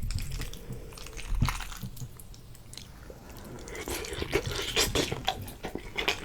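A person chewing a mouthful of cheesy chicken pasta: wet, squishy mouth sounds with scattered small clicks, sparser in the middle and busier near the end.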